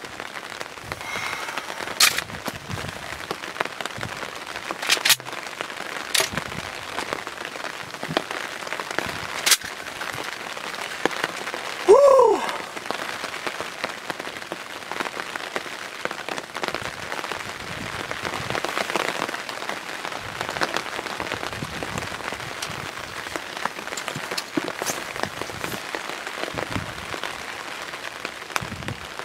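Steady rain falling in the woods, with scattered sharp drop ticks. About twelve seconds in, one short turkey call that rises and falls in pitch.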